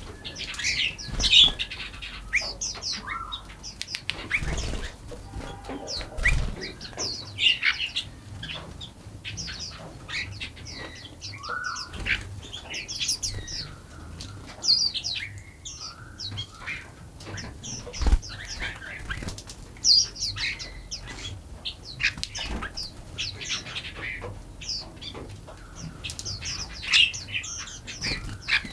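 Several small songbirds chirping and calling in quick, overlapping short notes, with a few brief low thumps.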